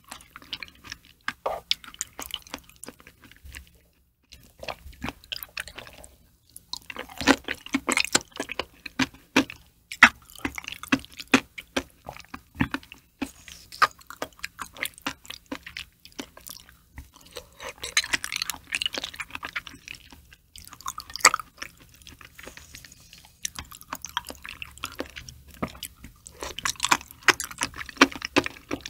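Close-miked wet chewing of soft raw liver: sticky squelches and lip smacks in quick irregular runs, with brief pauses between mouthfuls.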